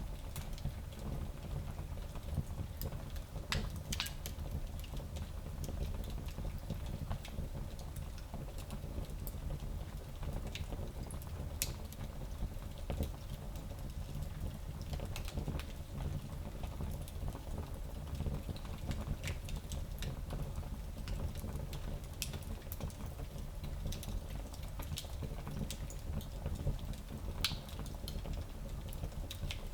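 Fire in a small fireplace crackling, with irregular sharp pops and ticks over a steady low rumble of the flames.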